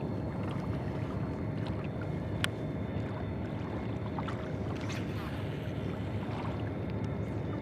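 Boat running on open water: a steady low rumble with a few light clicks.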